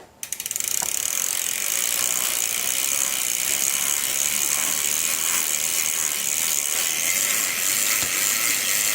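A road bike's rear freewheel ratcheting fast and steadily as the drivetrain is spun while the chain is lubricated. The clicks speed up over the first half second, then run as an even, continuous buzz of pawl clicks.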